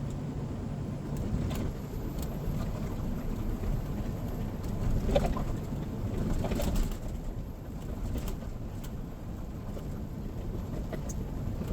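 Tanker semi-truck's engine and road noise heard from inside the cab: a steady low drone with a few faint clicks.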